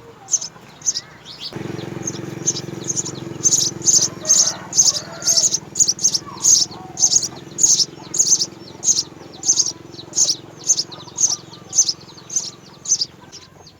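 House sparrow chirping over and over, about two short, high chirps a second, at the nest. A steady low hum starts about a second and a half in and stops near the end.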